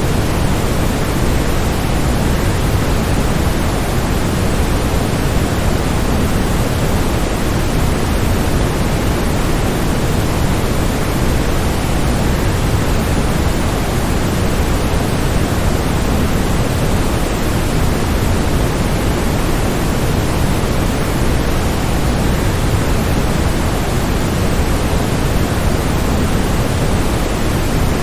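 Steady, unbroken rush of a waterfall, even throughout and heaviest in the low end, like pink noise.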